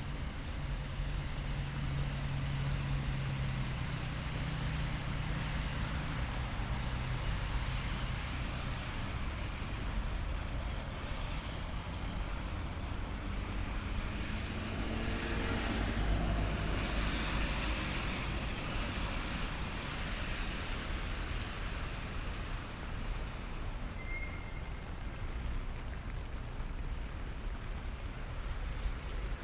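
Rain and traffic on a wet city street: a steady hiss, with a vehicle's engine hum fading over the first several seconds and a car passing close about halfway through, its pitch rising as it swells.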